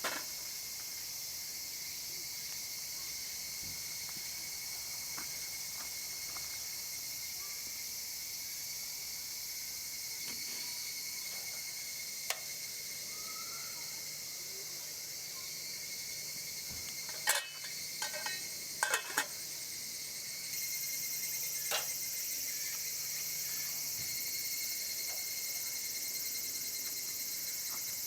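Steady high-pitched insect chorus of summer insects, growing a little louder about two-thirds of the way through. A short cluster of sharp clicks and knocks falls just past the middle, with a few single clicks before and after.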